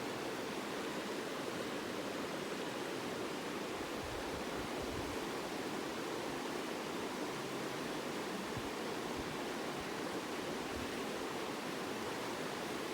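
Steady rushing of flowing stream water, even and unbroken, with a few faint low bumps about a third and two thirds of the way in.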